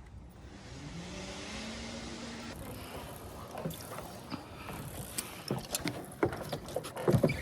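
Zip line gear: a faint rising, then steady whine, like a trolley running along the cable, over a steady hiss. After that come scattered metal clicks and clinks of clips and carabiners, getting busier near the end.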